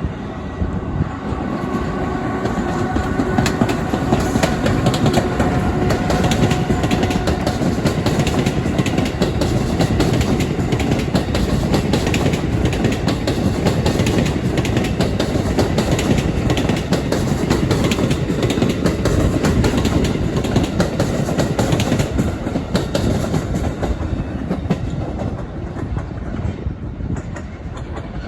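Train passing close by, its wheels clacking rhythmically over the rail joints, with a steady electric whine during the first several seconds. The sound builds over the first few seconds, holds, and eases off near the end as the train moves away.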